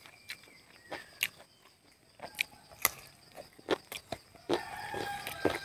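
Close-up eating sounds: a person chewing and smacking on boiled chicken leg meat pulled off the bone, heard as irregular short clicks and smacks.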